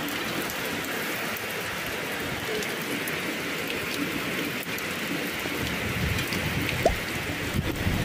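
Heavy rain pouring steadily on clay tile roofs, with a few low thumps near the end.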